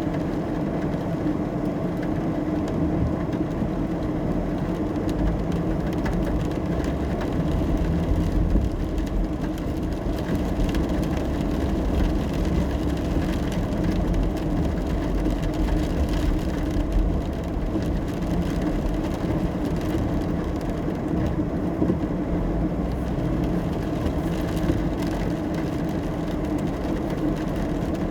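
Car driving in the rain, heard from inside the cabin: a steady drone of engine and tyres on a wet road, with faint scattered taps.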